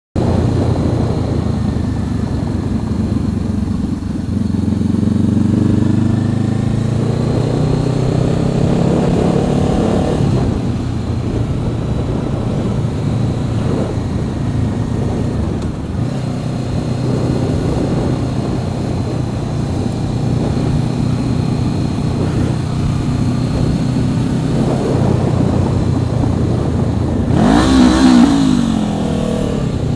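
Motorcycle engine running at speed, its note rising as it accelerates early on, then cruising steadily. Near the end comes a brief, loud burst with a sharply bending pitch, at the moment the rider is cut off.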